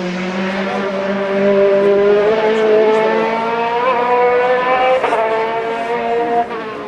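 Hillclimb race car engine at high revs under hard acceleration, its pitch climbing steadily. It dips briefly about five seconds in and again near the end, as at gear changes.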